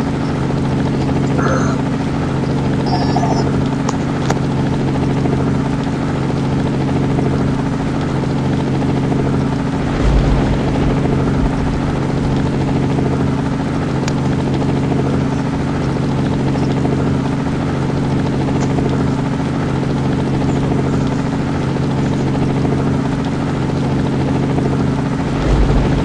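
Helicopter running steadily, a constant even drone. Two brief low rumbles come through, about ten seconds in and again near the end.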